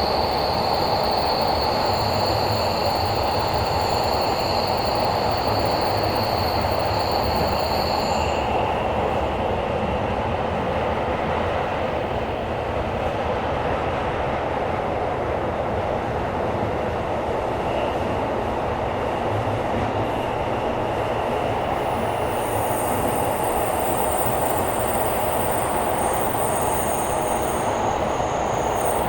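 Tokyo Metro 17000 series subway train running through a tunnel at speed, heard from inside the car as a steady rumbling roar. A high-pitched whine stops about eight seconds in, and thin high tones come back near the end.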